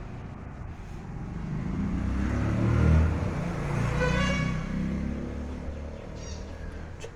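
Truck passing by. Its engine rumble grows louder to a peak about three seconds in, then fades away.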